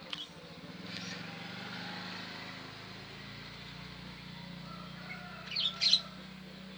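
Outdoor background with a low steady hum and a vehicle passing, then a quick cluster of sharp, high-pitched sounds about five and a half seconds in.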